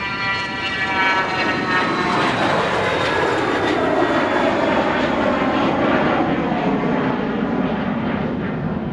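Airplane engines passing close by: a whining engine tone falls in pitch over the first couple of seconds, then gives way to a loud, steady roar that slowly lowers and eases near the end.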